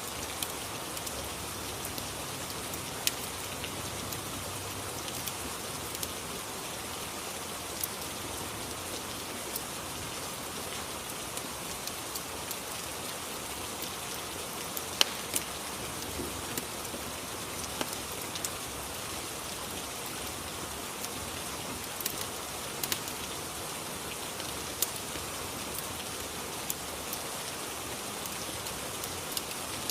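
Steady rain ambience, with scattered sharp pops and crackles from a fireplace every second or two.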